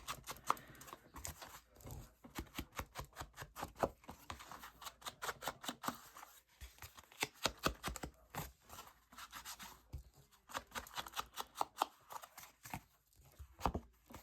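Scissors cutting paper: a long run of short, quick snips, broken by a couple of brief pauses.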